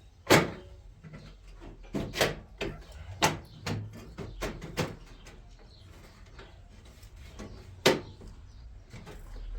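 A series of sharp, irregular knocks and clatters of hard objects, about a dozen in all, the loudest just after the start and another near the end, with a quieter gap in the middle.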